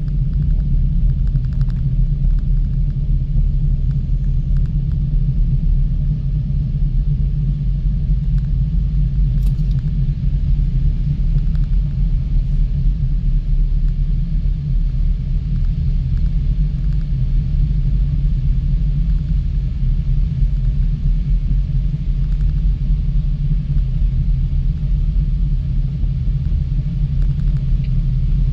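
Steady low rumble heard riding in a ropeway gondola cabin as it travels along the cable.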